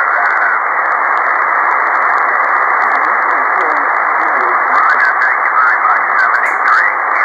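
Ham radio receiver's single-sideband audio: a steady hiss of band noise squeezed into a narrow voice band, with weak, garbled voices of distant stations faintly wavering under it.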